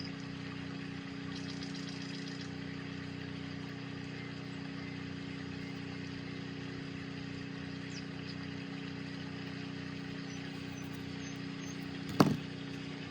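Steady low mechanical hum in the room, with one sharp click near the end.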